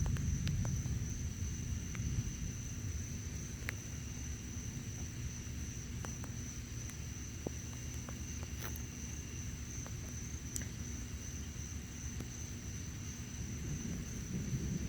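Night insects, crickets, chirring in one steady high tone, over a low rumble underneath, with a few faint ticks.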